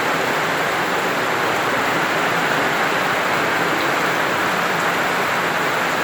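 Steady, unbroken noise of heavy water from the flooding, even in level throughout.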